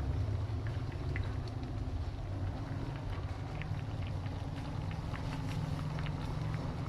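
Covered pot of young jackfruit with keluak simmering over the fire: a steady low rumble with scattered small bubbling pops.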